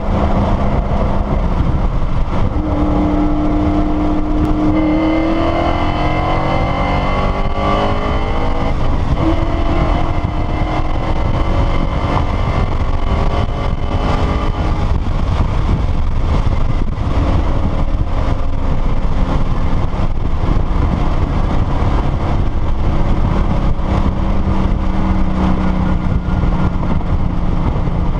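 Supercharged 2013 Mustang GT's 5.0 L V8 running through an MBRP full race exhaust, heard from inside the car while driving. A loud, steady exhaust drone climbs in pitch under acceleration a few seconds in and again past the middle. A thin high whine sits above it through the middle stretch.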